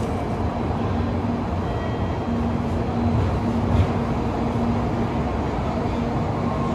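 Shinkansen bullet train pulling out and running: a steady rushing rumble with a faint low hum that comes and goes.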